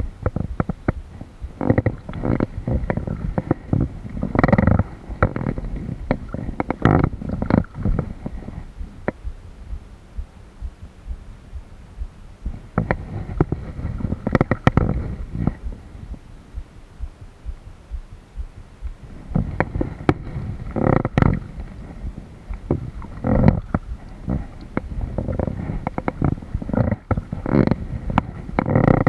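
Kayak on the water: paddle strokes and water sloshing against the hull, heard as rumbling bursts in runs of strokes with quieter pauses between.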